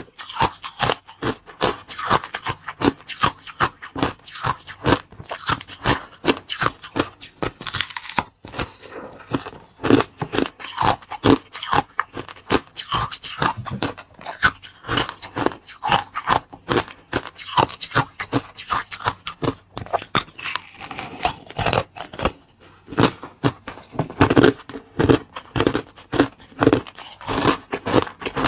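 Close-miked biting and chewing of crunchy food: a dense run of crisp crunches, several a second, with a few short pauses.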